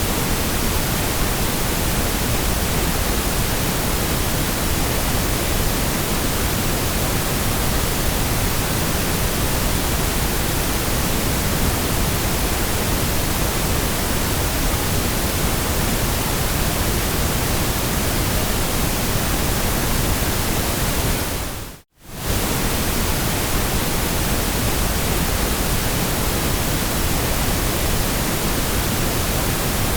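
Steady white noise, an even hiss across all pitches, cutting out for an instant once about three-quarters of the way through.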